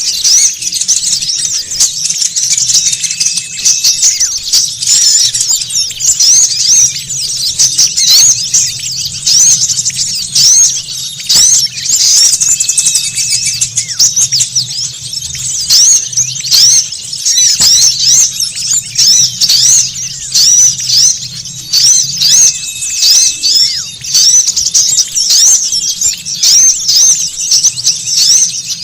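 A noisy flock of small songbirds chattering, with dense, rapid, high-pitched chirps and squeaks that never let up: a bird-luring recording meant to draw in small wild birds. A short thin whistle sounds about every ten seconds, and a faint low hum runs underneath.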